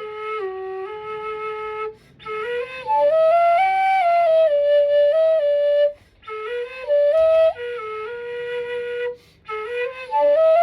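G-key nanxiao, a Chinese end-blown bamboo flute, played solo with no accompaniment: a slow melody of held notes in phrases, with three short breaks for breath.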